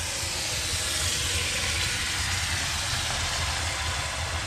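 Water in a kazan of fried meat, onion and carrot for plov, hissing and sizzling steadily as it boils up into steam: the broth (zirvak) being started.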